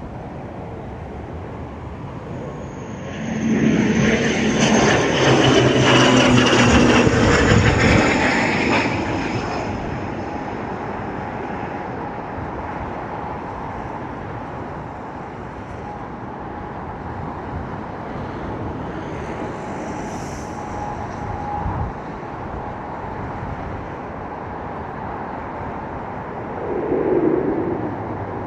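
Twin-turboprop ATR 72-600 passing close, its engines and propellers loud for about six seconds with a high whine over a low drone, then fading into a steady background rush. There is a short swell near the end.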